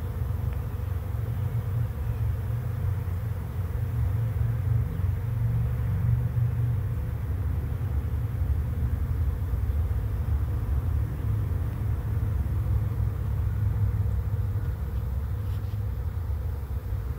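Honeybee swarm humming steadily as the bees stream into a swarm trap, over a steady low rumble.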